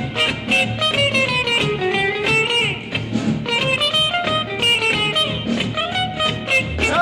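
Instrumental break in a 1954 rock-and-roll band recording: a guitar lead with sliding notes over a steady beat.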